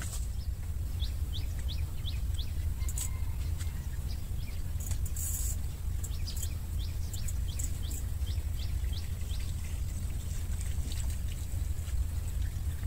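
A bird calling in two runs of quick, short, high chirps, several a second, about a second in and again past the middle, over a steady low rumble.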